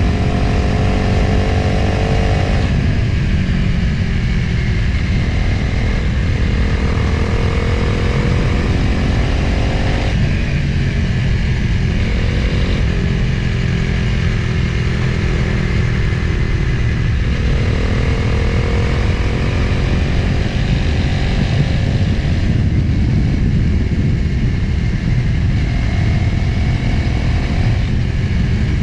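Motorcycle engine running while riding, with heavy wind rush on the microphone; the engine pitch climbs and then drops several times as the throttle opens and closes.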